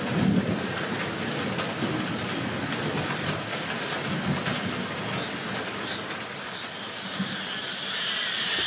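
Frogs calling in low, repeated croaks over falling rain, with many sharp drips. A higher frog chorus begins near the end.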